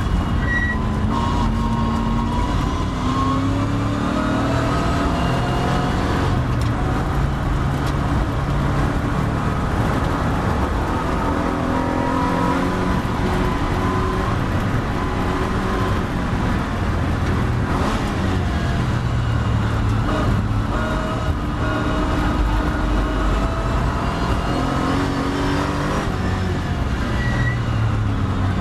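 Triumph TR7 race car engine heard from inside the car, over wind and road noise, pulling hard up through the gears with a drop in pitch at each change. It holds high revs down the straight, then eases off near the end as the car slows for a corner.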